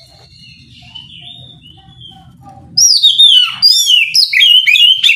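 Oriental magpie-robin (kacer) singing: soft, drawn-out whistled notes, then about three seconds in a loud outburst of rapid, varied swooping whistles.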